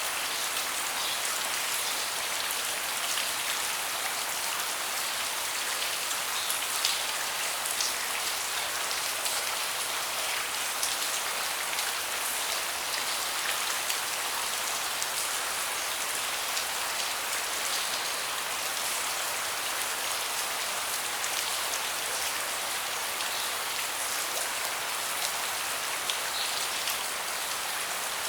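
Steady rain falling on a deck, a dense patter of drops hitting the surface.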